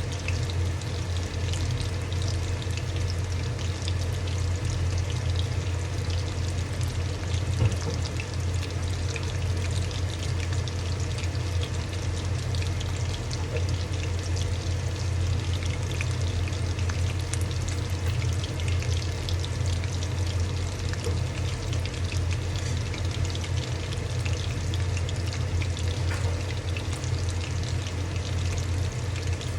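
Fish pakoras deep-frying in hot oil: a steady sizzle full of fine crackles, over a low steady hum.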